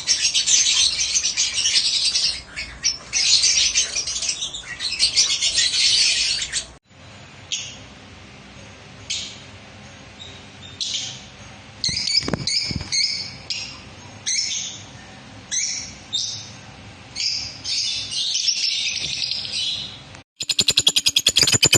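Lovebirds chirping: a dense flock of high, shrill chirps for the first seven seconds, then an abrupt change to separate short calls about once a second. Near the end it cuts to a fast, evenly repeated rattle.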